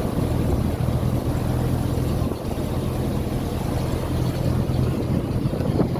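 Passenger motorboat's engine running steadily, a low drone under wind and rushing water noise.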